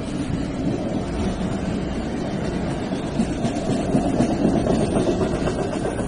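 Diesel-hauled railway track-maintenance train passing: a steady diesel engine drone under the rumble and clatter of wheels on the rails, swelling a little about four seconds in.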